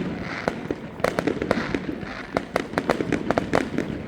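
Fireworks crackling: many sharp pops in quick, irregular succession, over a steady background din.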